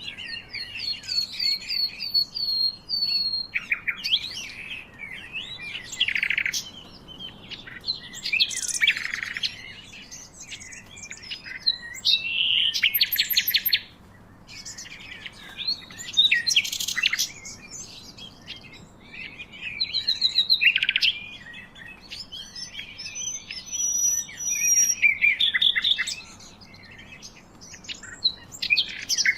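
Several birds calling and singing together in a busy chorus: chirps, short trills, rapid repeated notes and whistled glides overlapping one another.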